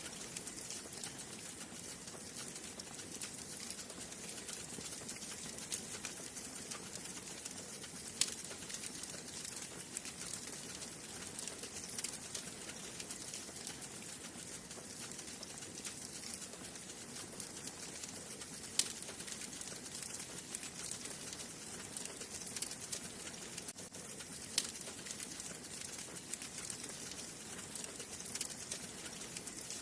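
Wood fire burning in a fireplace: a steady hiss of flames with frequent small crackles and a few sharper, louder pops scattered through.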